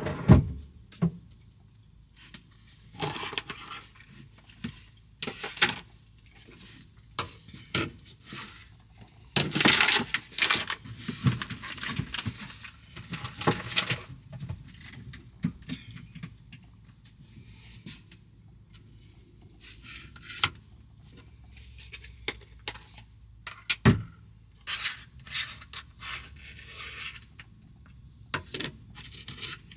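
Irregular clatter of knocks, clicks and short scrapes, as of objects being handled and set down, with the loudest knocks near the start and about a third of the way in.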